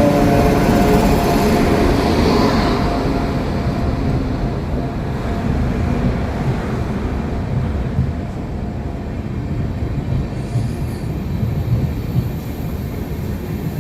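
Passenger express train pulling into a station, its coaches rolling past with a steady low rumble. A few steady tones at the start fade away over the first two seconds.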